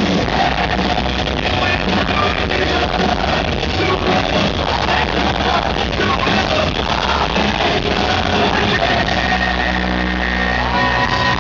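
A rock band playing live at full volume, with singing over the guitars and drums, recorded from the audience.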